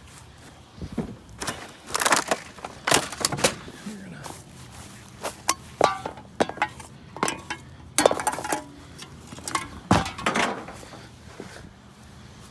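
Scrap metal being handled and tossed: a string of sharp clanks and clinks, a few pieces ringing briefly.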